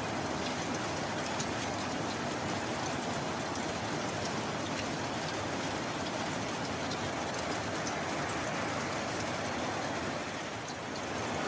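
Steady heavy rain, a dense even hiss with scattered sharp drop ticks, briefly easing a little near the end.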